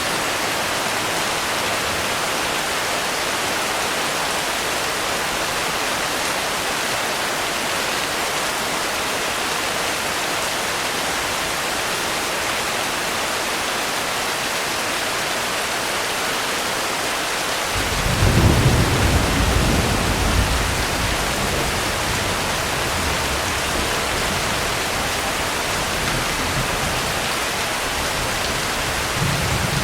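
Steady rain. About two-thirds of the way through, a roll of thunder begins, loudest for a couple of seconds, then rumbling on more quietly.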